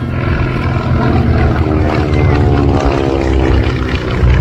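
Beechcraft Staggerwing biplane's radial engine and propeller droning as the aircraft flies past, its pitch slowly falling as it goes by.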